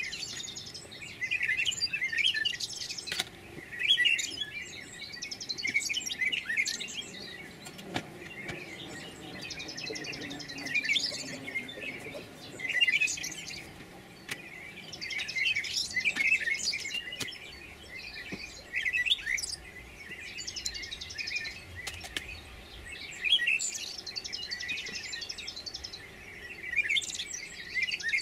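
Songbirds singing in repeated short phrases with fast trills, every few seconds, with a few faint knocks in between.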